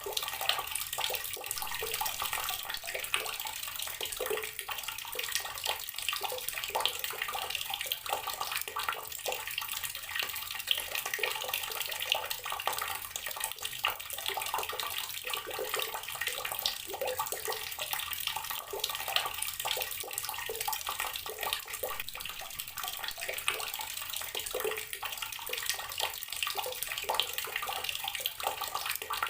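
Water running from an outdoor tap in a steady stream, splashing as it lands.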